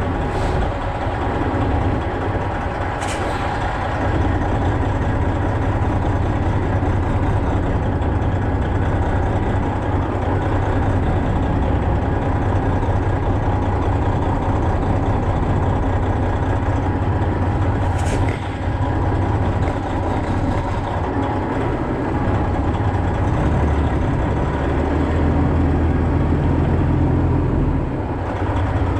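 Semi truck's diesel engine running steadily at low revs during slow reversing manoeuvres, with a few short sharp clicks.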